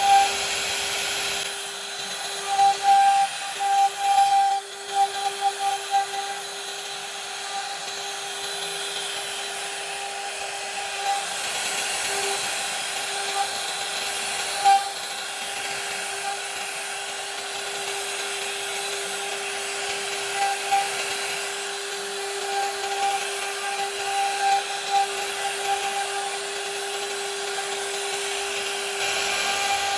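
CNC router spindle running at high speed with a steady whine over a hiss, the bit cutting wood; the cutting noise swells in stuttering patches for a few seconds near the start and again in the second half.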